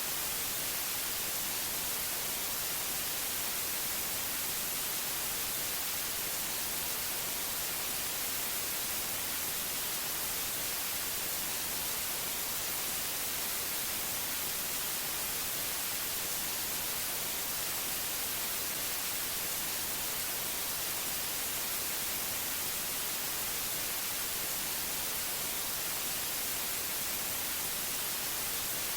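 Steady white noise: an even, unvarying hiss, brightest in the treble.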